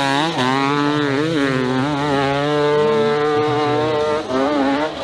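Dirt bike engine revving hard on a steep hill climb. Its pitch rises and falls as the throttle is worked, holds high through the middle, then drops briefly twice near the end.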